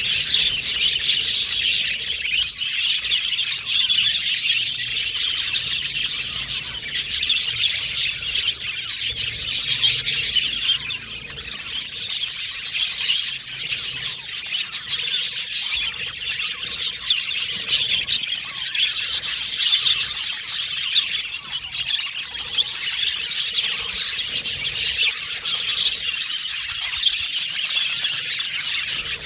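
Pet budgerigars chirping and warbling together in a dense, continuous, high-pitched chatter.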